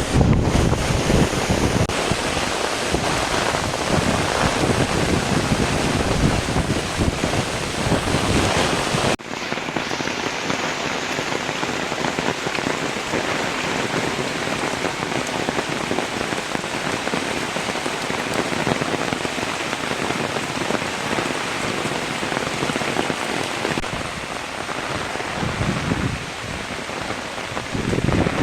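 Heavy rain pouring steadily, a dense hiss. About nine seconds in, the sound changes abruptly to a slightly thinner rain with less low rumble.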